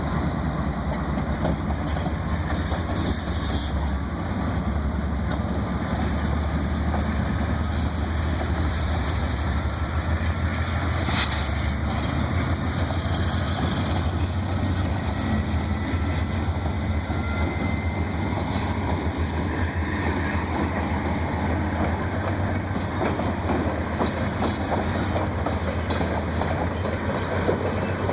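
Freight coal train rolling past, a continuous heavy rumble of steel wheels on the rails with clickety-clack over the rail joints.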